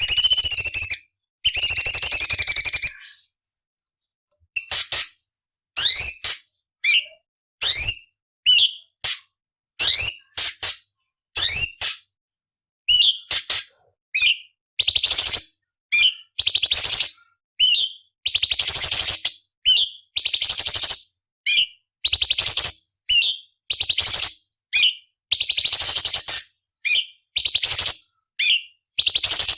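Orange-bellied leafbird singing in a quick series of short phrases. Harsh, rasping chatters alternate with sharp whistled notes that sweep up or down, each phrase cut off by a brief silence.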